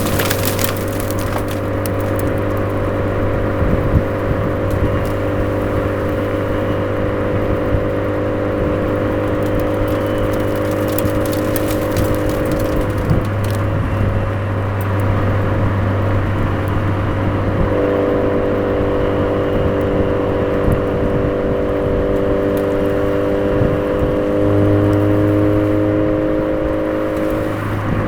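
Suzuki Swift Sport ZC33S's 1.4-litre turbocharged four-cylinder engine running through a Fujitsubo aftermarket exhaust on a downhill drive, a steady even drone. About halfway through the drone drops away for a few seconds, then comes back steady.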